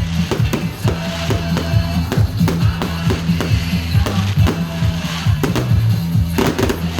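Loud music with sustained deep bass notes, with fireworks cracking and banging irregularly over it.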